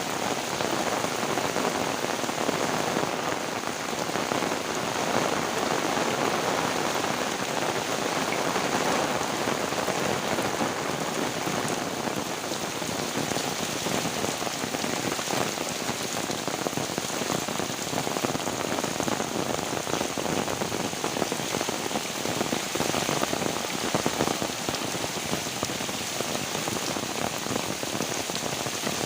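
Heavy rain falling steadily, a dense continuous patter of drops.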